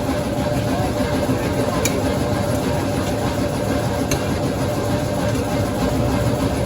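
An engine idling steadily, with two short light clicks about two and four seconds in.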